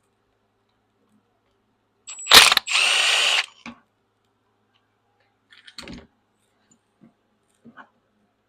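A handheld power tool runs for about a second and a half, unfastening hardware on a skid steer's hydraulic control valve. A lighter clunk of metal parts follows a few seconds later.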